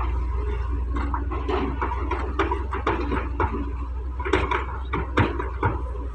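Doosan DX180W wheeled excavator's diesel engine running steadily, with a string of irregular knocks and clatters from the bucket and the mud it is loading.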